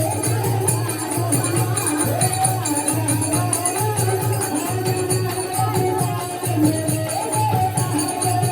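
Devotional Hindu bhajan to the mother goddess, with a sung melody over a steady drum beat and jingling tambourine.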